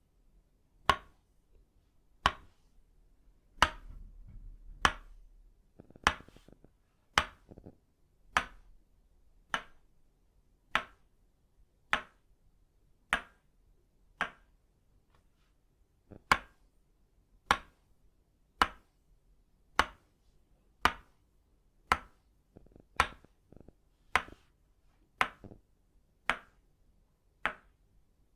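Tok sen massage tools, an itauba-wood mallet striking a wooden stick, give sharp wooden knocks at a steady pace of about one every 1.2 seconds, with a short pause near the middle. A soft low rustle sounds under the knocks a few seconds in.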